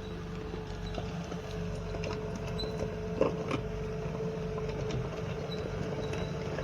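Skid steer engine running steadily, a low rumble with a constant whine, with a couple of sharp knocks about three seconds in.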